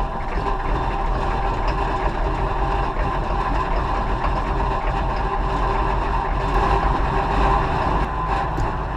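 Chevy 6.5-litre turbo diesel V8 idling steadily, warming up just after a cold start on glow plugs.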